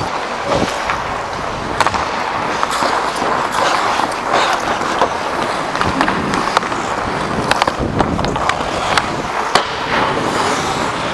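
Hockey skates moving over the playing surface, with sharp clicks of sticks striking a puck scattered through.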